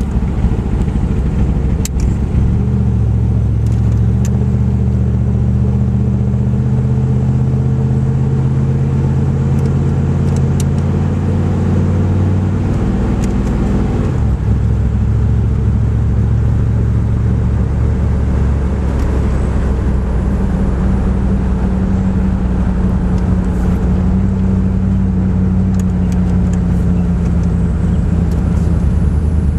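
V8 truck engine running on wood gas from an onboard gasifier while the truck drives. The engine note rises a couple of seconds in and drops suddenly about halfway through.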